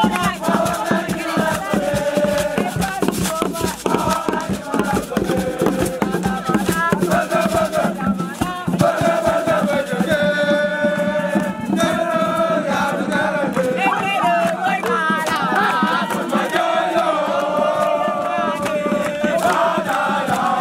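A group of voices singing a chant together over a fast, steady percussive beat.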